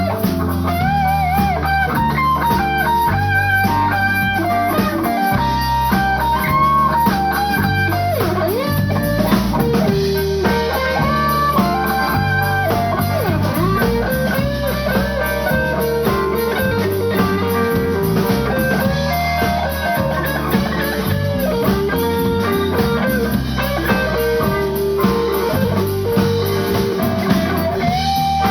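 Live blues band playing: an electric guitar plays a lead line with bent notes over bass guitar and drums.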